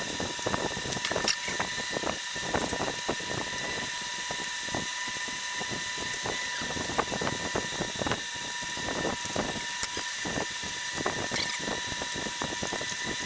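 Irregular metallic clicking and clinking of hand tools and parts being worked on a stripped-down V4 tractor engine, over a steady high hum.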